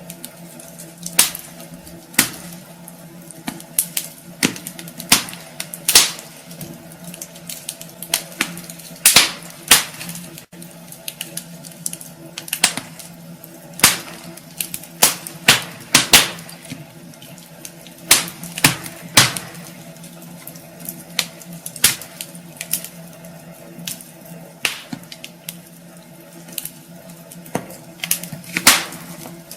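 Wood fire in a fireplace crackling, with irregular sharp pops and snaps of burning logs, over a steady low hum.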